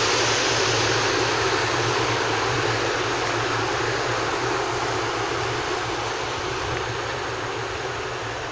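Class 90 electric locomotive 90008 and its train moving through the station: a steady rushing rumble with a low hum that slowly fades.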